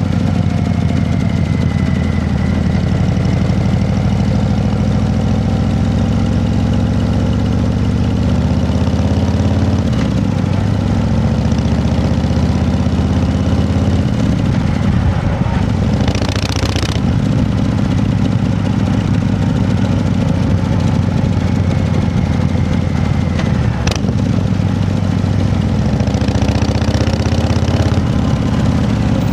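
An engine running steadily at low speed, its pitch drifting slightly. There is a short hiss about 16 seconds in and a sharp click near 24 seconds.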